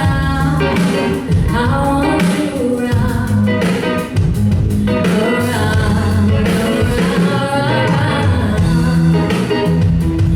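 A live band playing a song with a singer: lead vocal over guitar, bass and drums.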